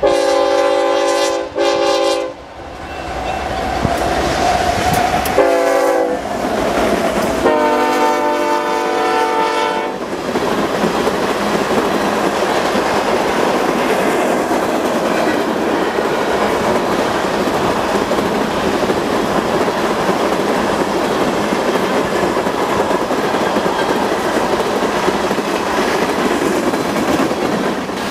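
A freight train's diesel locomotive horn sounds four blasts, the last the longest, in the pattern of a grade-crossing warning. Then the train rolls past with steady wheel-on-rail noise and clickety-clack.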